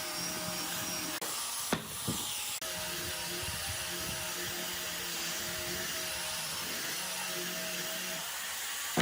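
Electric power tool running steadily with a hiss and a steady hum, like a sander or grinder working wood, with two sharp knocks about two seconds in.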